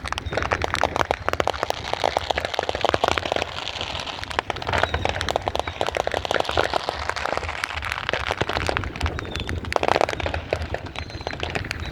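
Fireworks crackling densely and continuously, a rapid run of sharp crackles with louder clusters of pops now and then.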